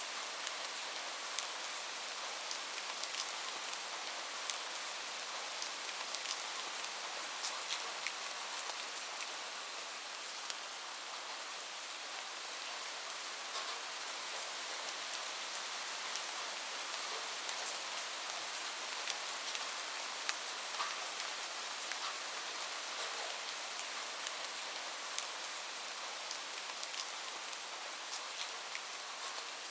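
Steady rain falling on a roof: an even hiss with many sharp drop ticks scattered through it.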